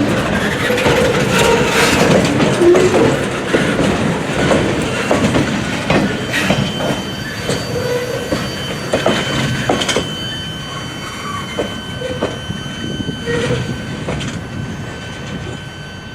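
Freight train cars rolling past, their wheels clattering over the rail joints. A thin, high wheel squeal comes in about six seconds in. The sound slowly fades toward the end.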